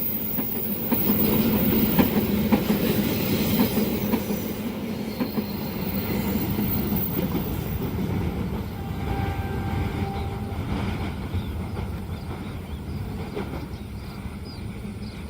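A train passing at speed over a curved level crossing: steady rumble of the cars with wheels clattering over the rail joints, slowly fading as the train moves away.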